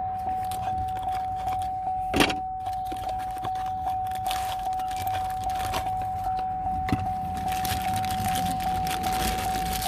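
A steady electronic beep tone sounding without a break, pulsing faintly about three to four times a second, over small clicks and rattles of parts being handled. The loudest click comes about two seconds in.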